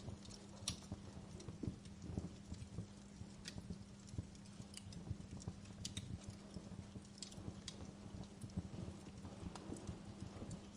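Wood fire crackling in a fireplace: irregular sharp pops and snaps, several a second at times, over a low rumble of burning logs and a faint steady hum.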